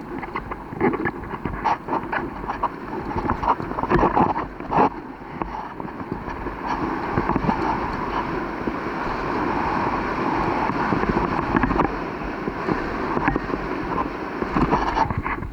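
Wind buffeting the microphone while riding over rough ground, with frequent knocks and rattles.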